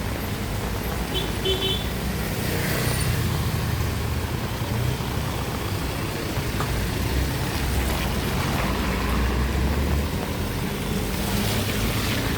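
Street traffic: vehicle engines running and passing with a steady low hum, and a brief high-pitched beeping about a second in.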